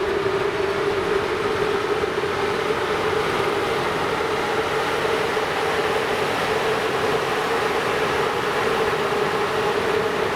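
A train running past or through the station: a steady rushing noise with a humming tone that rises slightly in pitch in the first second.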